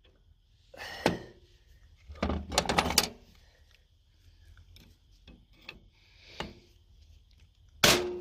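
Hammer blows on a valve spring cap of an old diesel engine, struck hard to compress the spring and free the valve collets. One blow comes about a second in, a quick cluster follows around two to three seconds, and a loud one lands near the end, with small metal clicks between.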